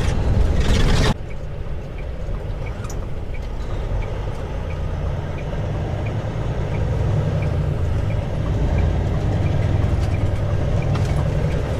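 Semi-truck's diesel engine running steadily while driving, heard from inside the cab, slowly growing louder. A louder rush of noise cuts off suddenly about a second in, and a light ticking about twice a second runs for several seconds in the middle.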